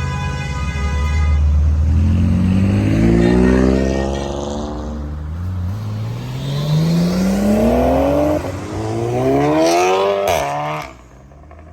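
A modified car's engine accelerating hard away through the gears, the revs climbing three times with a drop at each upshift. The sound falls away abruptly near the end.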